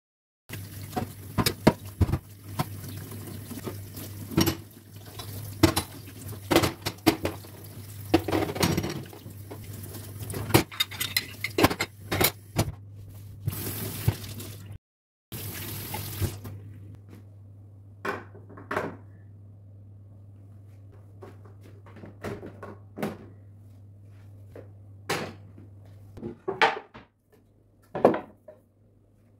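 Kitchen tap running into a sink while dishes and pans are washed, with frequent clinks and clatter. After a brief silent gap about halfway through, the water stops and only scattered clinks and knocks of dishes remain, over a steady low hum.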